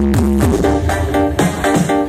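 Loud electronic dance music played through a large carnival sound system of stacked subwoofers and line-array speakers. A riff of short repeated notes runs over heavy bass notes that slide down in pitch.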